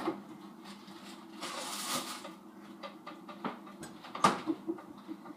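Handling noises: scattered small clicks and knocks, a short rustle about one and a half seconds in, and a sharper knock a little past four seconds, over a faint steady hum.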